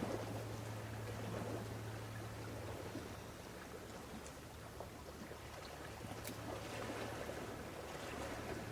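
Steady outdoor ambience: a low, even hum with a soft rushing, water-like noise behind it and a few faint light clicks; the hum is stronger in the first few seconds.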